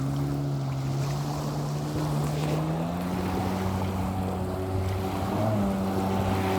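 Sea-Doo SP's 580 cc two-stroke twin engine running, its pitch climbing gradually from about two seconds in and stepping up again near the end.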